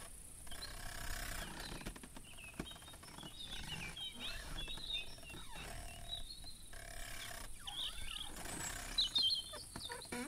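Birds chirping, a run of short, quick high calls that come and go in snatches.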